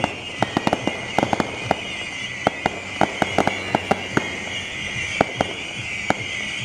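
Fireworks going off: many sharp, irregular cracks and pops, several a second, over a steady high hiss.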